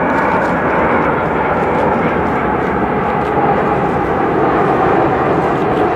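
Airplane engines running, a loud steady noise with a faint whine through it.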